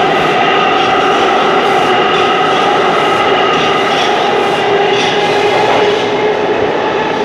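A train running steadily, with a constant multi-tone whine over a rumble and faint clicks from the rails.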